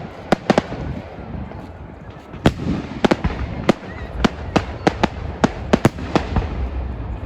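Fireworks going off: about fifteen sharp bangs and cracks at irregular intervals, some in quick pairs, over a low rumble.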